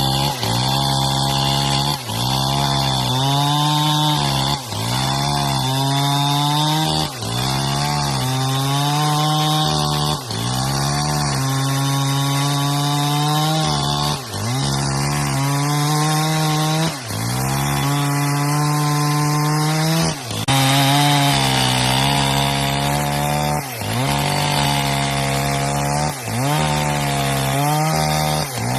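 Chainsaw running at high speed through the whole stretch, its pitch dropping briefly and recovering about every two to three seconds.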